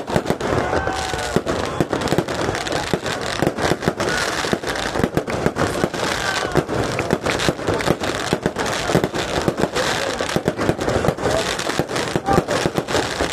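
A long, dense run of firecrackers going off, many sharp pops and bangs a second in an irregular rattle.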